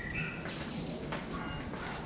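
Birds chirping in short calls at the start and again around a second in, over a steady low background rumble.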